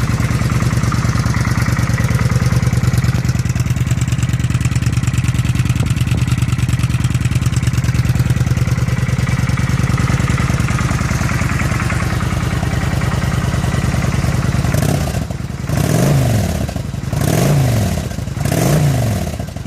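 2007 Kawasaki Vulcan 900's V-twin engine idling through its stock exhaust pipes, then revved three times near the end, each rev rising and falling back to idle.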